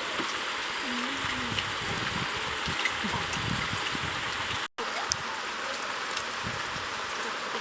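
Steady rushing hiss of water, broken by a brief dropout about two-thirds of the way through.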